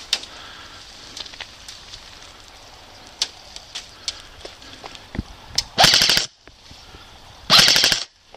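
Airsoft rifle fire: two short bursts of rapid full-auto shots about a second and a half apart, preceded by scattered single shots.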